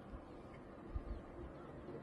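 Faint outdoor ambience: a low steady background hum with a couple of soft low thumps about a second in.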